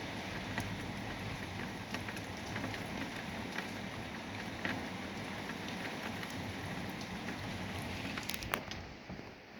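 Heavy thunderstorm rain pouring down, a steady rush with scattered drops ticking on surfaces. Near the end the rush falls away, leaving a few sharp taps.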